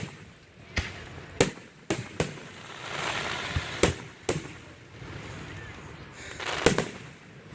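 Aerial fireworks bursting: about eight sharp bangs at irregular intervals, with a stretch of crackling around the middle and one of the loudest bangs near the end.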